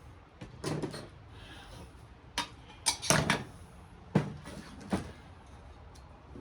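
Knocks and clinks of metal parts being handled and set down on a workbench during the teardown of a radial arm saw, about six knocks at irregular intervals with a small flurry a little after three seconds in.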